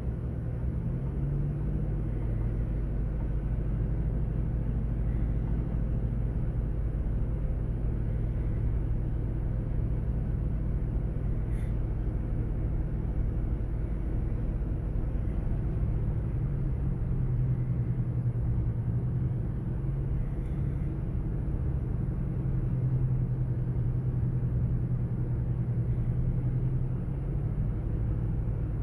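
Steady low engine rumble with a droning hum that swells a little now and then.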